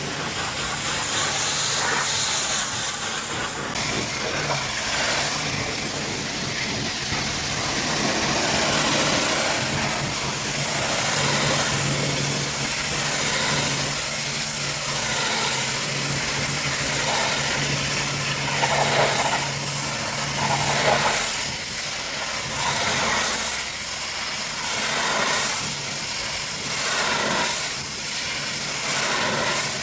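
Pressure washer spray hissing against a truck over the steady hum of the washer's machinery. In the later part the hiss swells and fades about once a second as the spray is swept back and forth.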